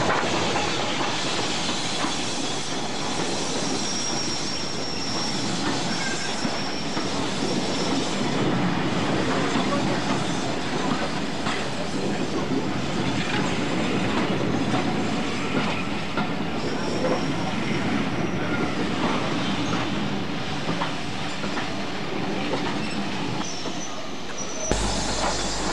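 A steam-hauled train of coaches rolling slowly along the platform: a steady rumble with clicks from the wheels over rail joints, and a thin high wheel squeal now and then.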